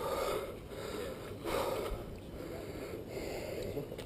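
A person breathing heavily, noisy breaths swelling about every second and a half.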